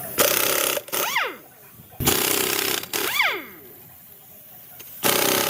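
A power tool run in short bursts, five times. Each time the trigger is released, a whine falls away as the tool spins down.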